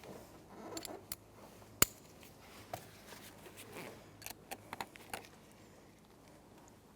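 Scattered light clicks and handling noises from a T20 Torx bit on a socket extension driving the instrument cluster's mounting screws, with one sharp click about two seconds in and a run of smaller clicks between about four and five seconds.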